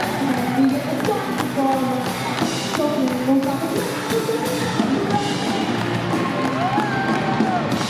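Live band music playing a melody.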